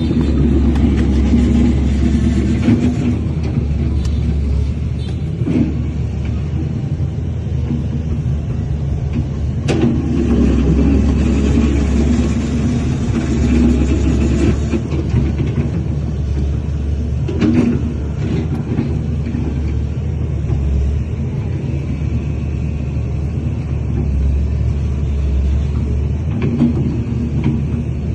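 Heavy diesel earthmoving machinery running steadily with a low engine rumble, broken by three sharp clanks: near the start, about ten seconds in, and about seventeen seconds in.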